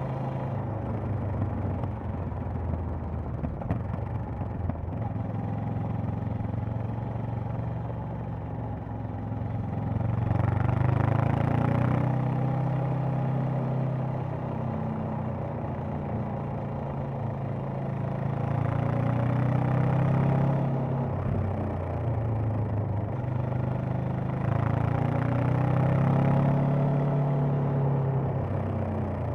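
Honda CB500X's 471 cc parallel-twin engine and exhaust running under way. The revs swell up and back down three times, about a third of the way in, around two-thirds and near the end.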